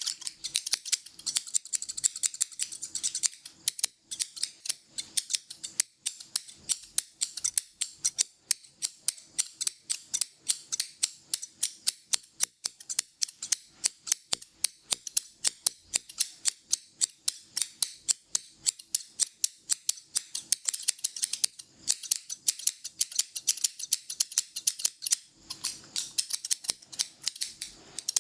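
Barber's scissors snipping close to the microphone in a long run of quick, even, crisp snips, several a second.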